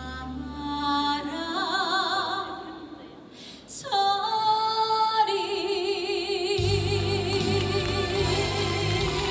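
A woman singing a trot song with heavy vibrato over instrumental accompaniment. Around four seconds in she holds a long wavering note, and a bass line joins a couple of seconds later.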